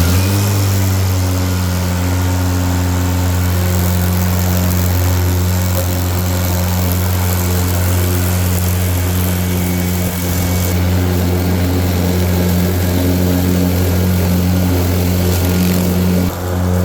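Ryobi electric riding mower running with its deck blade motors at speed: a steady, even hum with a higher whine and an airy hiss over it.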